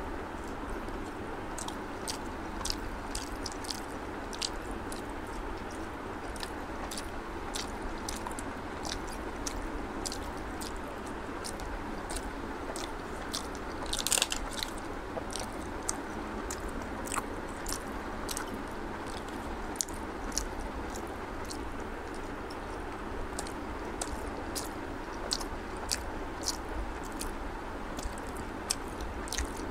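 Close-up chewing and mouth sounds of a person eating syrupy red rasgullas, with many short clicks over a steady low background hum. About halfway through there is one brief, louder crackle as a small plastic cup is handled.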